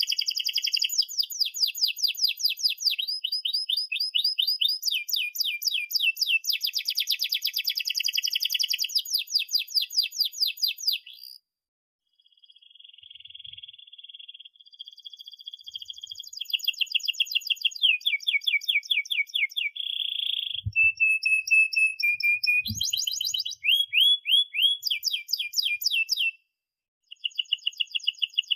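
Domestic canary singing a long song of rapid trills and chirps, the notes repeated many times a second. It breaks off briefly about eleven seconds in and again shortly before the end.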